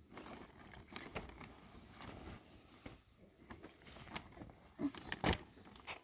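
Light rustling with scattered small clicks, and one sharper knock about five seconds in.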